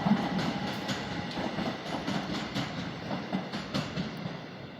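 Class 375 electric multiple unit pulling away, its wheels clicking over rail joints in an uneven run of clicks over a rumble that slowly fades.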